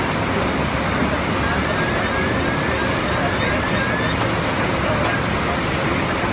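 Steady road traffic noise, a continuous rumble and hiss of passing vehicles, with faint short rising chirps repeating through it and a single sharp click about five seconds in.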